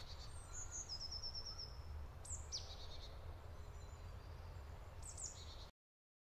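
Faint songbird chirps and a short rapid trill over a low steady rumble of forest ambience. The sound cuts off suddenly near the end.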